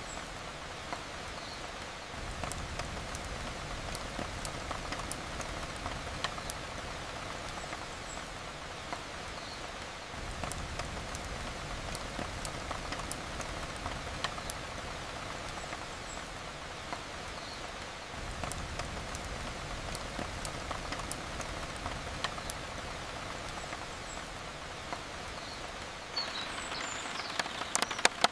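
Steady rain falling, with scattered sharp crackles of a wood fire.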